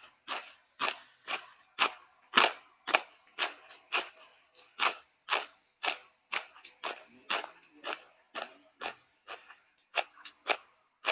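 Pestle pounding papaya salad in a mortar, sharp knocks at a steady pace of about two strikes a second.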